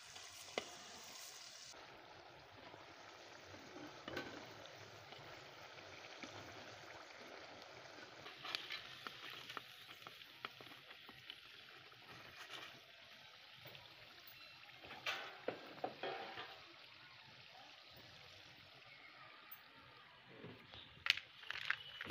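Potato fries sizzling in hot oil in a metal pot, with scattered clinks and scrapes of a slotted metal skimmer stirring them and lifting them out.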